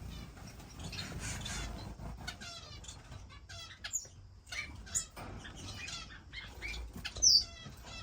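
Finches fluttering their wings in a cage, mixed with high chirps and quick chattering call notes. One loud, sharp chirp comes near the end.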